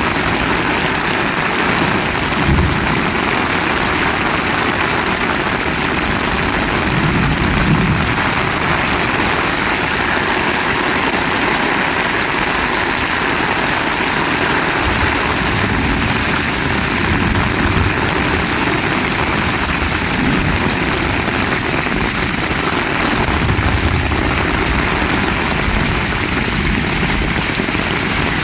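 Heavy rain falling steadily, a dense even hiss, with a few low rumbles rising and fading through it.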